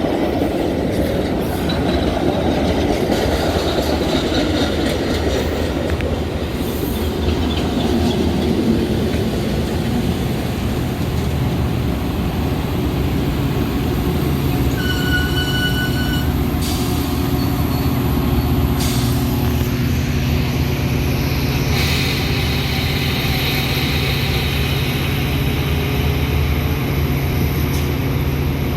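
Metra commuter train at a station: a loud rumble of moving rail cars with some wheel squeal, then a steady low engine hum. A short electronic tone sounds once about halfway through.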